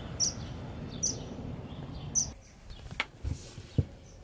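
Three short, high bird chirps about a second apart over steady outdoor background noise. After that the background drops away and a few sharp knocks and clicks follow near the end.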